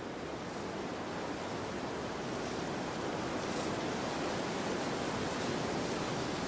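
Storm wind blowing in strong gusts: a steady rushing noise that swells a little louder and hissier about halfway through.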